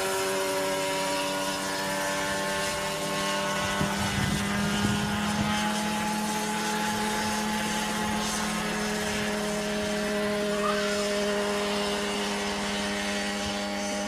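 Grob G 120TP trainer's turboprop engine and propeller, a steady aircraft drone with a strong low hum and higher tones above it. A few dull bumps come about four to five seconds in.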